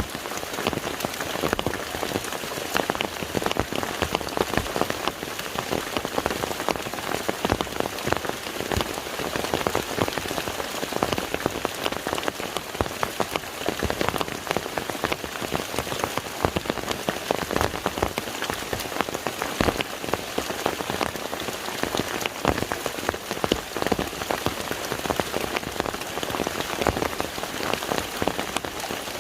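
Steady rain falling on the surface of a lake, a dense patter of many individual drops striking the water.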